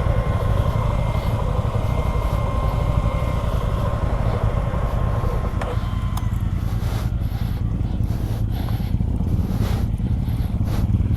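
Suzuki V-Strom 250 SX motorcycle being ridden, its engine running under a steady rumble of wind on the microphone, with a thin steady whine in the first half and scattered knocks and clicks in the second half.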